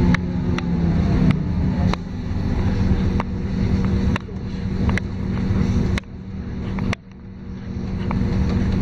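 LiAZ-5292.22 city bus's diesel engine and drivetrain running under way, heard inside the passenger cabin. The hum swells and then drops off sharply over and over, each drop marked by a short click, and it grows quieter after about six seconds.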